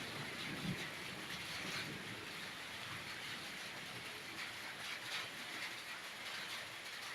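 Heavy rain falling in a thunderstorm, a steady hiss. A low rumble dies away in the first two seconds.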